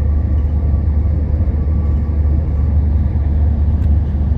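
Amtrak Capitol Corridor passenger train running at speed, heard from inside the car: a steady low rumble of wheels and running gear on the track, with one faint click near the end.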